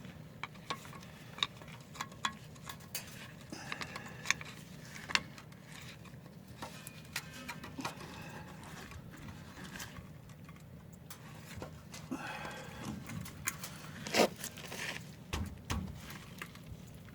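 Hand tools clicking and scraping on metal brake parts while a brake caliper's pistons are pried back, with scattered sharp metallic taps and one louder knock near the end.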